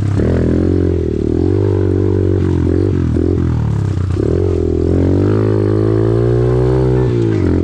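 Off-road vehicle engine revving under riding, its pitch dipping and recovering several times, then climbing steadily for about two seconds before falling off sharply near the end. The engine is running a little rich.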